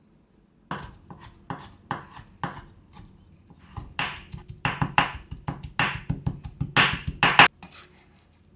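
Kitchen knife chopping on a cutting board, a series of uneven strokes that start about a second in and come faster and louder in the second half before stopping near the end.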